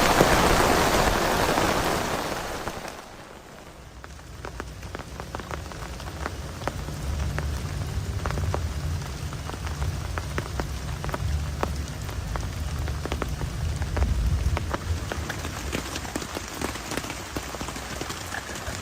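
Heavy rain hissing, easing off sharply about three seconds in. After that, separate raindrops tick on a surface over a low rumble.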